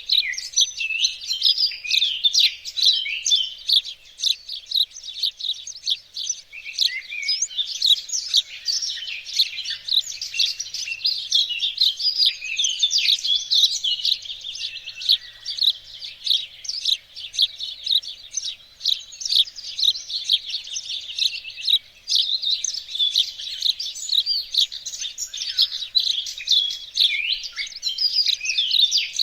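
Small songbirds chirping and singing in a dense, continuous chorus of rapid, high-pitched overlapping calls and trills.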